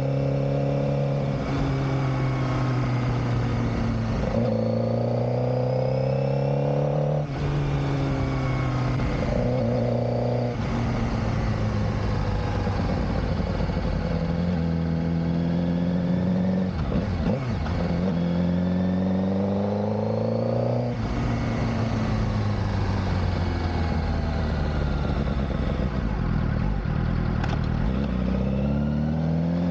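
Suzuki GSX-R600 K7 inline-four engine heard while riding, its pitch climbing under throttle and dropping sharply at several upshifts, with a lower, uneven stretch in the middle as the bike eases off.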